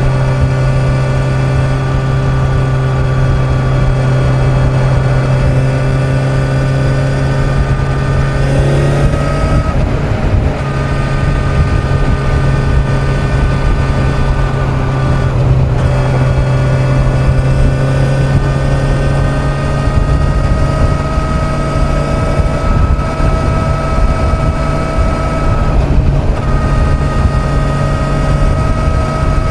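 Kawasaki Z900 inline-four engine running steadily at highway cruising speed, over a constant low rush of wind and road noise. Three times the engine note briefly breaks and then settles at a slightly different pitch.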